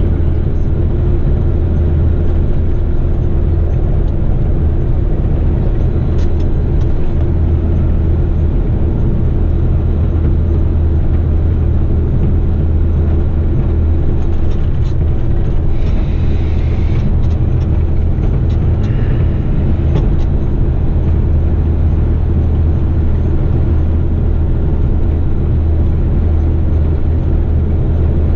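Heavy eight-wheeler twin-steer rigid truck's diesel engine droning steadily while driving, heard from inside the cab along with road noise.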